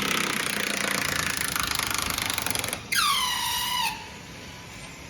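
Fast, even mechanical rattling for nearly three seconds, then a loud high squeak that slides down in pitch and holds for about a second, typical of metal grinding against metal as the outboard's steering rod is worked loose.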